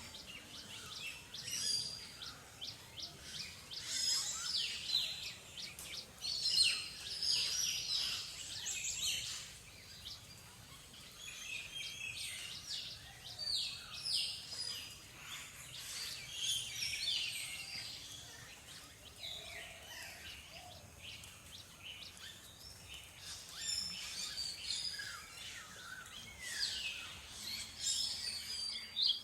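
Several small songbirds chirping and twittering over one another in a near-continuous chatter of short high notes, busiest in the first half and again near the end.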